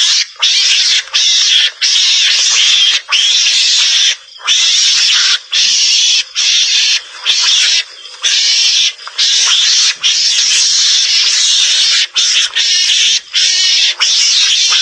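Javan mongoose (garangan) calls used as a hunting lure: raspy, hissing calls repeated one after another, each lasting from half a second to about two seconds, with short breaks between them.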